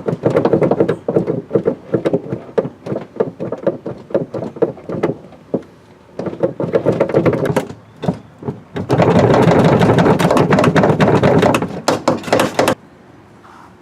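1985 Jeep CJ seat bracket creaking and knocking over and over as the seat is worked back and forth. The sound comes from a loose pivot pin, which the owner suspects sits in ovaled-out holes. A denser, continuous stretch of the noise runs for a few seconds past the middle, and it stops shortly before the end.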